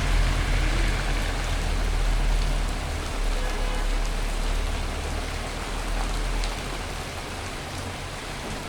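Heavy rain pouring down on surfaces as a steady, dense hiss. A low rumble underneath fades away over the first half.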